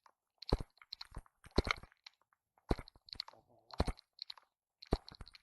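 Footsteps crunching on dry ground and vegetation, about one step a second, with rustling between the steps.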